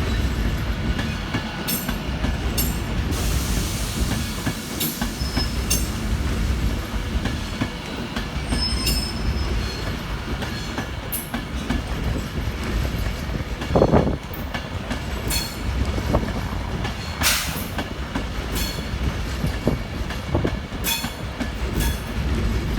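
Class 390 Pendolino electric train pulling out of the station, a steady rumble with its wheels clicking irregularly over rail joints and points. A faint wheel squeal comes twice, and there is a louder knock about two thirds of the way through.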